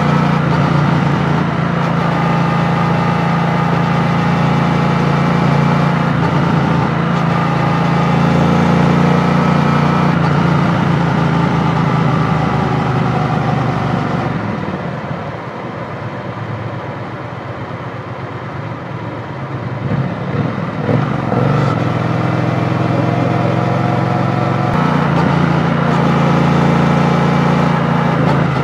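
Triumph Bonneville T120's 1200 cc parallel-twin engine running steadily under way, with wind and road noise. It goes quieter from about halfway through for several seconds, then pulls steadily again near the end.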